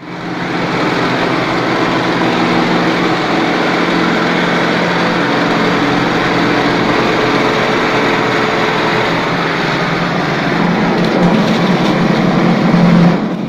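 Wall plastering machine running steadily with a mechanical hum, getting louder near the end.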